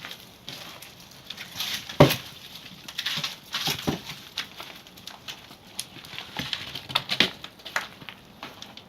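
Wood-fired kiln being stoked: irregular knocks and clacks of firewood being handled and fed in, with crackling between them, the loudest knock about two seconds in.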